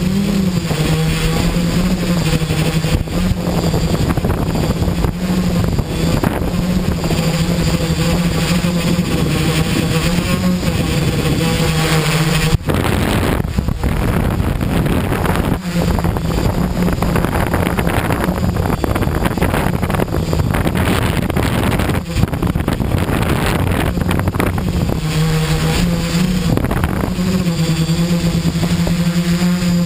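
Quadcopter's electric motors and propellers humming steadily, the pitch stepping up and down a little as the motors adjust. Gusty wind buffets the microphone throughout and nearly covers the hum through the middle stretch.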